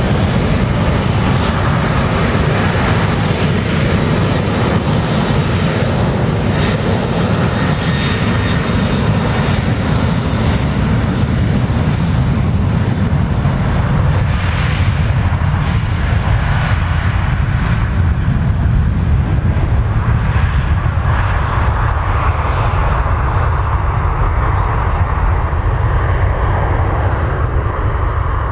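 Boeing 737-800's twin CFM56-7B turbofan engines at takeoff thrust during the takeoff, a loud, steady jet noise heard from outside the aircraft.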